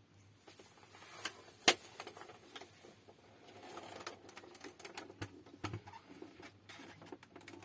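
Irregular light clicks and taps, with one much louder click about two seconds in, over a steady low hum.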